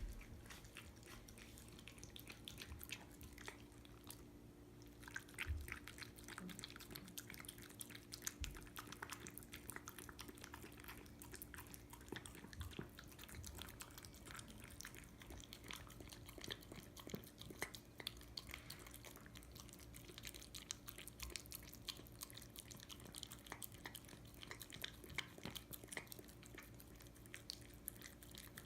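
A dog chewing and eating food: many small, faint clicks and smacks throughout, over a faint, low, steady hum.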